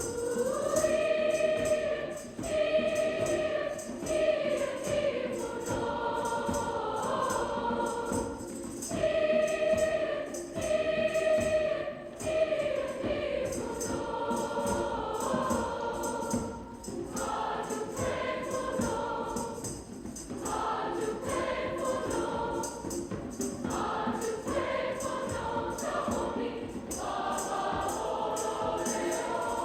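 Choir singing long held chords, phrase after phrase, with brief breaths between phrases.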